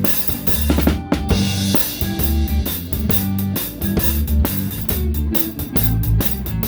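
Live rock band playing an instrumental stretch of a rock-and-roll Christmas tune, heard close up from the drum kit: steady kick and towel-damped snare backbeat under electric guitars and bass, with a cymbal crash about a second in.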